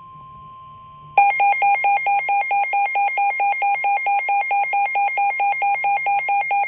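NOAA Weather Radio alert: a faint steady 1050 Hz warning tone, then about a second in a weather alert radio's loud electronic alarm sounds in rapid, even pulses that warble between two pitches, signalling that a warning is being broadcast.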